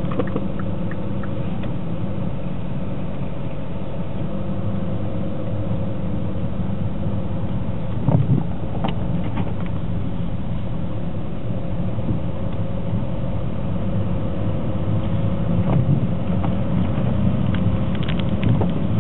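Motor vehicle engine running steadily, with a few sharp clicks about halfway through and again near the end.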